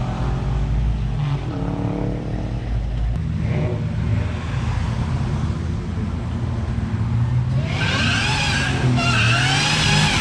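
Car engine running with a deep rumble, then, about three-quarters of the way in, a loud high-pitched supercharger whine that rises and falls with the revs.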